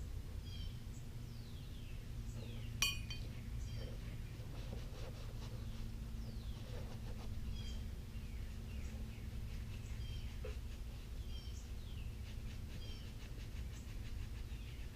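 A single sharp metallic clink of a small metal part about three seconds in, over a steady low hum, with short high bird chirps repeating every second or so.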